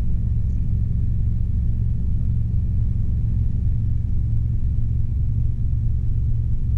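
Robinson R22 helicopter in steady flight heard from inside the cabin: a continuous low drone of the main rotor and piston engine, even in level with no change in pitch.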